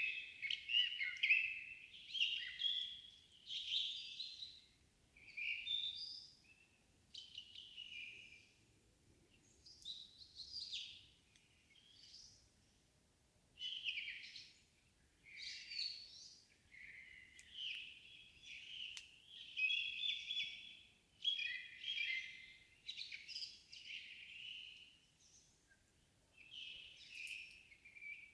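Songbirds singing in a quiet evening forest, with no wind. Phrase follows phrase, each a second or two long with short gaps between them, and the songs are high and varied, as from more than one bird.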